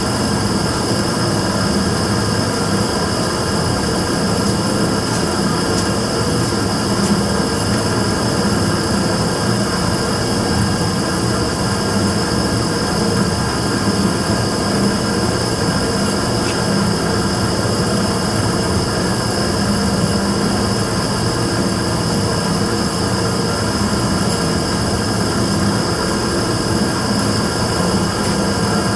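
Immersion-tube burner firing continuously, a steady rushing noise with a constant low hum and a high whine held level throughout. This is the burner's abnormal noise.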